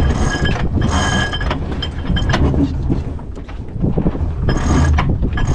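Strong wind buffeting the microphone aboard a sailboat in rough sea: a loud, continuous low rumble with repeated bursts of hiss.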